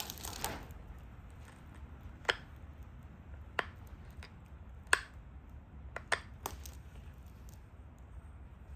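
Pressure flaking on a stone Dalton point: about six sharp, separate clicks as small flakes pop off the edge, spaced irregularly a second or so apart, two of them close together a little past the middle.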